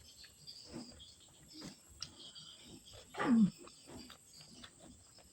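Close-miked chewing and mouth sounds of someone eating, with soft crunches and smacks. About three seconds in there is one short "hmm" that drops in pitch, a sound of relish.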